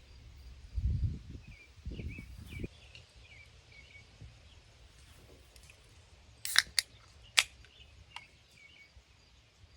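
Outdoor ambience with faint bird chirps, two low rumbles about a second and two seconds in, and a few sharp clicks later on.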